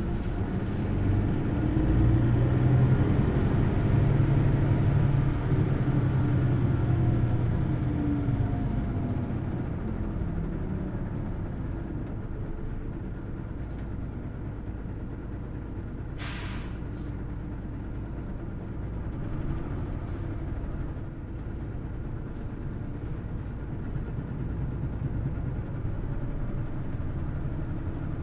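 Hino Blue Ribbon City Hybrid bus engine and hybrid drive revving high as the bus pulls away, a whine rising and then falling, before it settles to a quieter steady run. A short burst of air hiss comes about halfway through.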